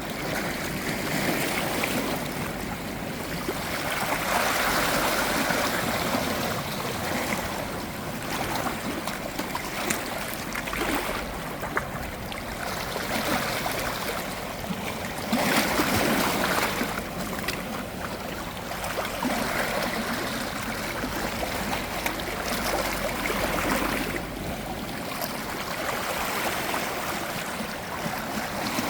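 Small sea waves washing over a stony shoreline, swelling and easing every several seconds.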